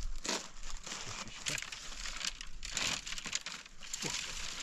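Irregular rustling and crackling, with louder strokes just after the start and again about three seconds in.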